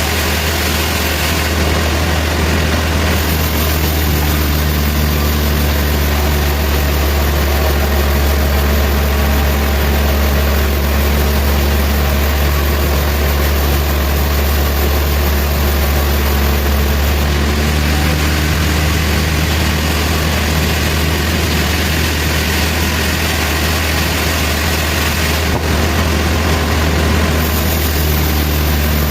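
Sawmill machinery running steadily: a constant low engine drone with an even noisy layer over it.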